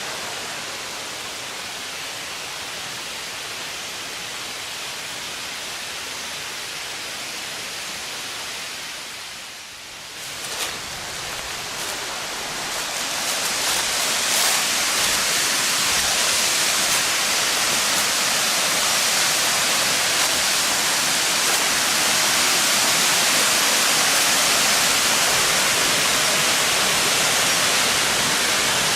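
Waterfall rushing: a steady, even rush of falling water. It dips briefly about a third of the way in, then grows louder and stays loud.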